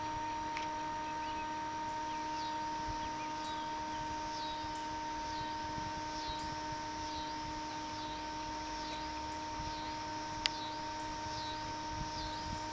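A bird calling over and over, a short high swooping note repeated about one and a half times a second, starting about two seconds in, over a faint steady hum. One sharp click near the end.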